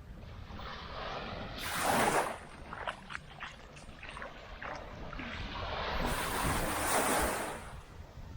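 Small waves breaking on a sandy beach, one about two seconds in and a longer one building to a peak near the end, with the wash fizzing on the sand between them. A low wind rumble on the microphone runs under it.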